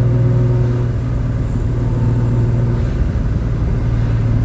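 Rebuilt 3.0-litre air-cooled Porsche 911 flat-six with individual throttle bodies, running at a steady engine note while the car is driven at moderate revs, with a brief break in the note about three seconds in.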